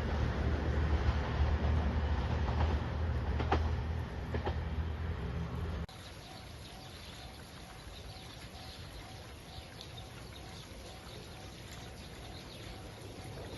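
A train passing close by: a loud low rumble with a few sharp clicks of the wheels, which cuts off abruptly about six seconds in. After that, a much quieter background with a faint tone repeating evenly.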